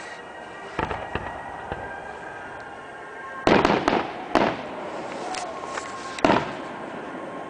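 Fireworks bursting: a few smaller bangs, then a loud cluster of cracks about three and a half seconds in and another sharp bang near the end.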